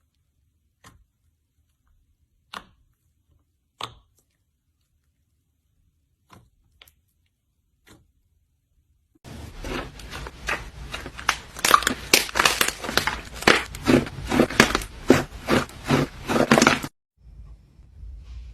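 Slime being squeezed and worked by hand: a few scattered sticky clicks and pops, then from about nine seconds in a dense run of loud crackling and popping that stops abruptly near the end.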